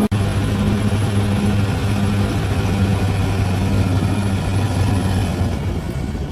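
Bulldozer's diesel engine running steadily under load, a low continuous hum. The sound breaks off for an instant just after the start, then carries on.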